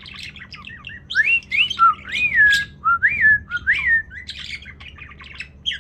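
Pet bird chattering: a run of five or six rising-and-falling whistled notes in the middle, among scratchy chirps and clicks, as if scolding another bird.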